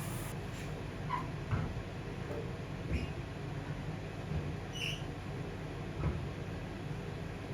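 A few light taps and clicks of small household objects being handled, with a brief high squeak about five seconds in, over a steady low hum.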